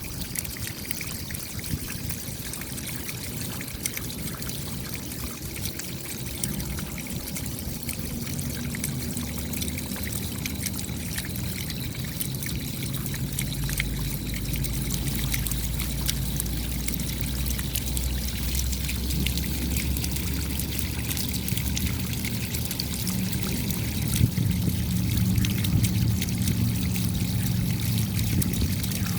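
Steady rain, a dense patter of raindrops with water trickling and pouring. A faint low hum sits underneath, growing a little louder in the second half.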